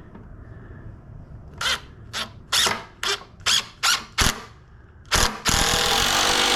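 Cordless drill driving a long screw into wood: a series of short trigger bursts about every half second, a knock, then one longer loud run of a second or so near the end.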